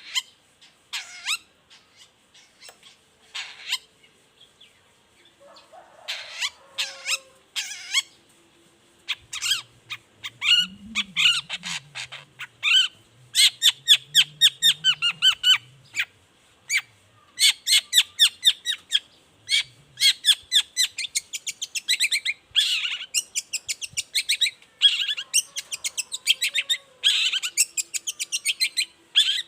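Long-tailed shrike (cendet) calling: a few spaced, sharp notes at first, then from about nine seconds in, fast runs of short harsh repeated notes that go on in bursts.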